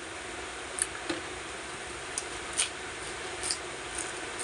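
Crisp crunching as a raw winged bean pod is bitten and chewed: about six short sharp snaps spread over a few seconds, above a steady background hiss.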